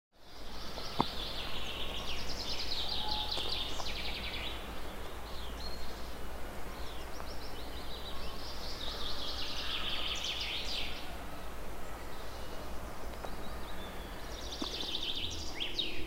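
Songbirds singing: three main bursts of fast, trilled chirping song with scattered shorter calls between, over a low steady background rumble.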